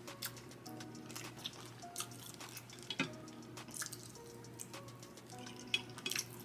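Wet chewing and mouth clicks from eating a seafood boil of shrimp and potatoes by hand, heard as scattered sharp clicks. Faint background music with short held notes plays underneath.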